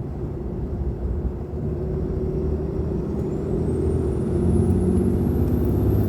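6.7 Cummins turbo-diesel pulling under throttle, heard inside the cab with the windows up, its engine note growing louder. About halfway in a thin high turbo whistle comes in and rises steadily as the turbocharger spools up through the S&B cold air intake.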